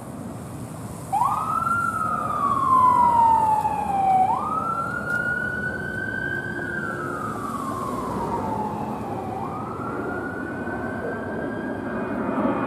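Emergency vehicle siren sounding a wail: about a second in it sweeps up sharply, then falls slowly, rising and falling again twice more, over a steady low rumble of traffic.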